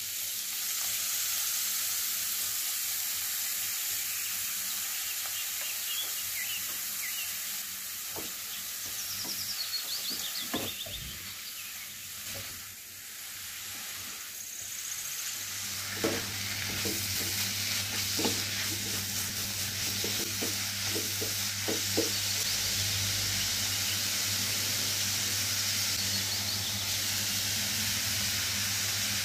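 Shredded bottle gourd sizzling in hot oil in a nonstick wok, frying until soft, while a spatula stirs it. The spatula scrapes and knocks against the pan now and then, most often in the second half.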